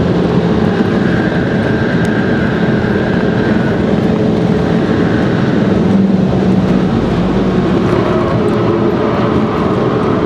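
Volvo five-cylinder turbo engine running steadily at speed, heard from inside the cabin over a dense wash of tyre and wind noise.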